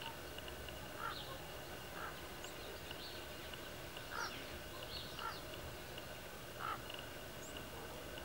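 Faint bird chirps: about five short calls spaced a second or so apart, with a few fainter high chirps among them, over a steady low background hiss.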